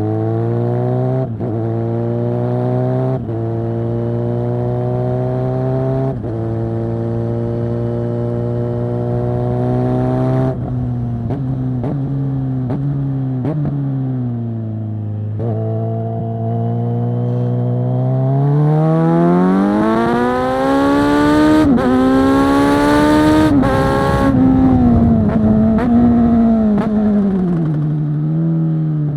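2022 Kawasaki Z900 SE inline-four with a Zard full-system exhaust, loud, pulling through the gears with brief dips at each upshift. About halfway through the revs drop, then it revs hard to a much higher pitch, and the pitch falls again as it slows near the end.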